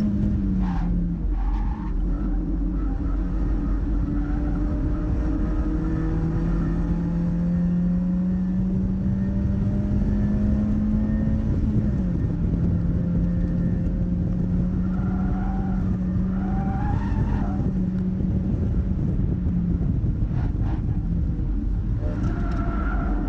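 Mazda MX-5's four-cylinder engine running at high revs under load, holding a steady pitch with brief dips at gear changes. The tyres squeal twice in the latter half, when cornering hard.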